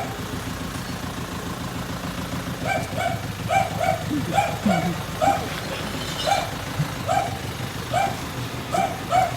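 A dog barking repeatedly, often in quick pairs, starting about three seconds in, over the steady idle of a garbage truck's engine.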